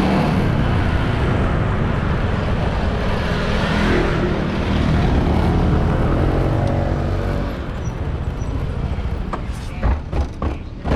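Motorbike on the move with heavy wind rush on the microphone and engine noise. It eases off about two-thirds of the way through, and a few sharp knocks follow near the end.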